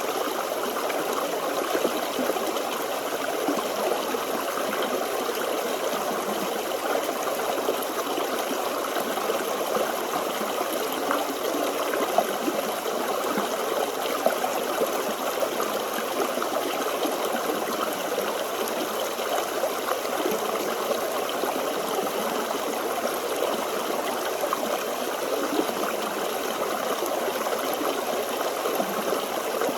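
Small forest stream flowing and trickling over stones, a steady babble of water.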